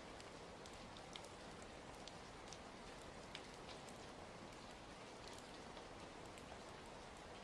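Quiet, steady rain with scattered small clicks and pops, from a rain and crackling-fireplace ambience mix.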